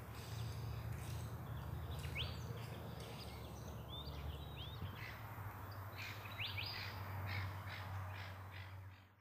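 Outdoor ambience of wild birds calling: short repeated calls and several rising whistled notes, over a steady low rumble. Everything fades out at the very end.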